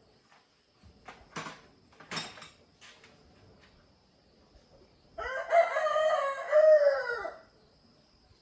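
A rooster crowing once, one long call of about two seconds that starts about five seconds in. It is preceded by a few sharp knocks.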